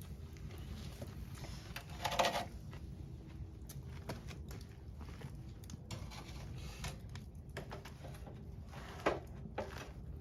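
Wood campfire crackling: scattered small pops over a steady low rumble, with two brief louder sounds, one about two seconds in and one near the end.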